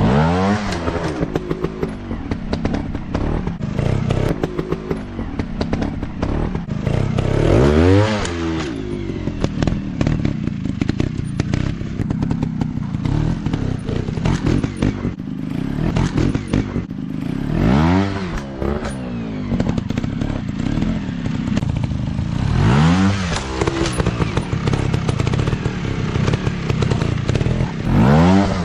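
Dirt bike engines running, with the throttle blipped in sharp revs that rise and fall back about five times, plus clattering knocks throughout.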